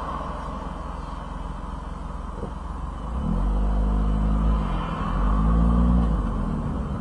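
Daihatsu Copen GR Sport's small turbocharged three-cylinder engine, heard from inside the open-top cabin, pulling away: revs climb from about three seconds in, dip briefly, then climb again louder.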